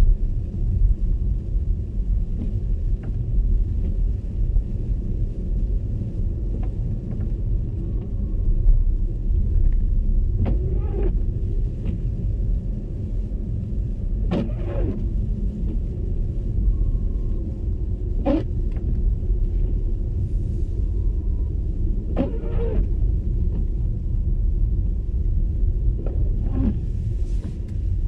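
Steady low road and tyre rumble of an MG ZS EV electric car driving on snowy roads, with no engine note. Short knocks come about every four seconds from about ten seconds in.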